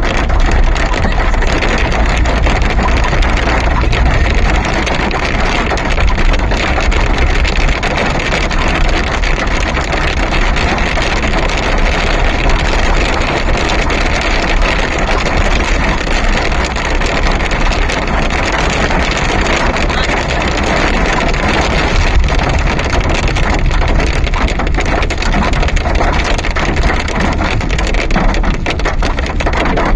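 Storm wind blowing hard and steadily across the microphone, with a heavy low rumble and a constant rushing hiss.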